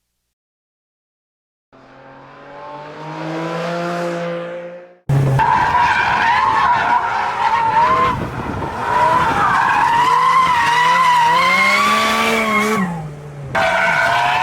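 Porsche 718 Cayman GT4 RS's 4.0-litre flat-six engine revving at high revs. It fades in about two seconds in, then an abrupt cut about five seconds in brings a louder passage whose pitch rises and falls with the revs. It dips briefly near the end before coming back.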